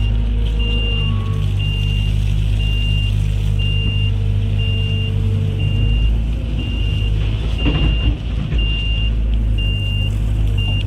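Heavy diesel machinery engine running steadily under a backup alarm that beeps a single high tone about once a second. A brief rough burst of noise comes roughly three quarters of the way through.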